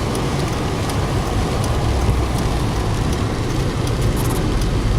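A vehicle's engine running steadily with a low rumble, heard from inside the cabin, under an even hiss of noise.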